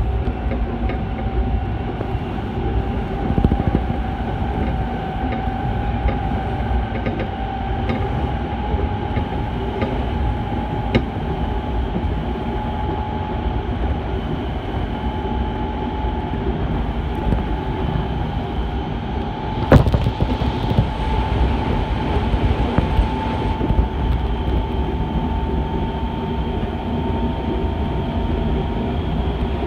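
Semboku Rapid Railway 7000 series electric train running, heard from inside the carriage: a steady rumble with a whine that rises slowly in pitch. A sharp knock comes about twenty seconds in, followed by a few seconds of hiss.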